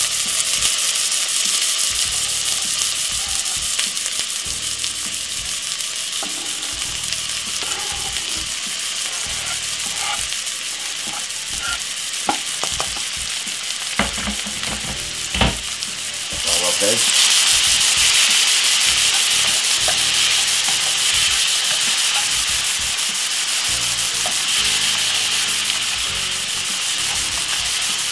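Chopped onion, peppers and tomato sizzling in hot oil in a frying pan, with the scrape and tap of a slotted spatula pushing and stirring them. The sizzle grows louder a little past halfway through.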